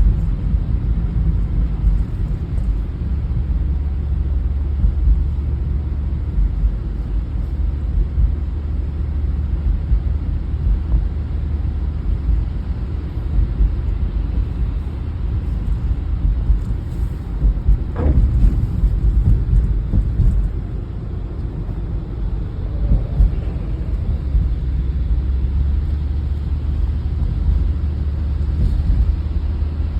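Wind buffeting the microphone, a heavy, gusty low rumble, with one brief click a little past halfway.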